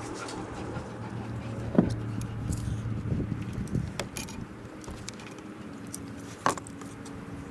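Handling noises from hand work: a few sharp clicks and knocks, the loudest about two seconds in, over a steady low hum.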